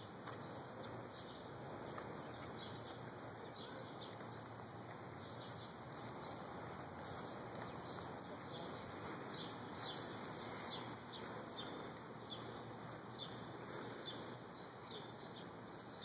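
Small birds chirping, short high chirps repeated every second or so, faint over a steady hiss of outdoor background noise.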